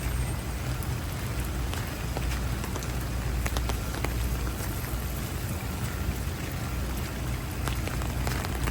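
Heavy rain falling steadily, with many individual drops ticking sharply over the hiss and a low rumble underneath.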